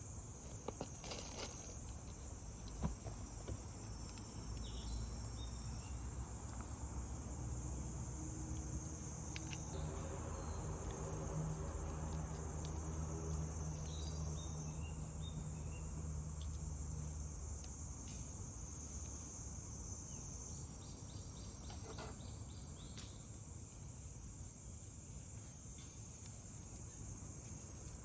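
Insects, likely crickets, chirring in a steady high-pitched chorus, with a few faint chirps and small clicks. A low hum swells up in the middle and fades out after about eighteen seconds.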